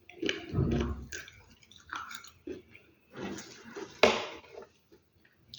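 Close-miked chewing and biting of crunchy food in irregular bursts, with a sharp, loud bite about four seconds in.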